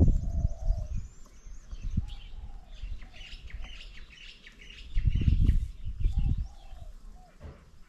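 Several birds chirping and calling, with a high trill in the first two seconds and a short, low, cooing call repeating through. A low rumble comes near the start and again about five seconds in.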